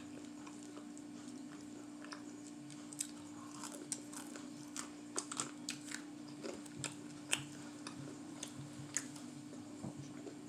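A person chewing and biting fried food close to the microphone, with irregular small crunches and mouth clicks. A steady faint hum runs underneath.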